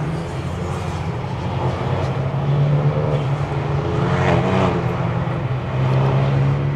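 2018 Renault Mégane RS's 1.8-litre turbocharged four-cylinder engine running steadily while the car drives along, with road and tyre noise underneath.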